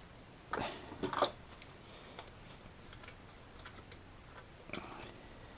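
Socket ratchet clicking in short, irregular runs as a small nut is tightened by hand, with louder clicks about half a second in, around a second in, and near the end.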